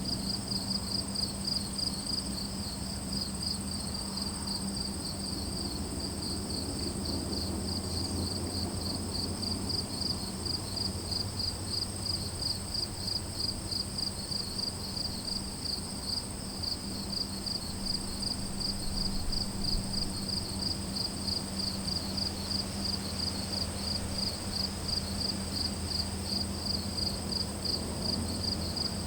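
Crickets chirping in an even, repeating rhythm, with a continuous high-pitched insect trill and a low steady hum underneath.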